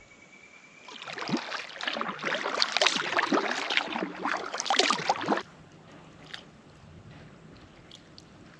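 Water splashing and churning close against a kayak for about four seconds, with many quick splashes, then stopping abruptly.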